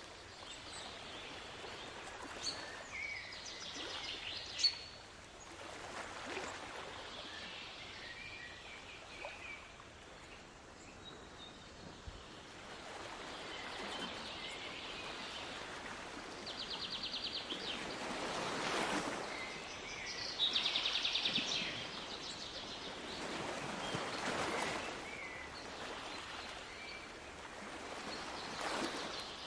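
Sea waves washing in, the rush swelling every few seconds, with birds chirping and trilling over it.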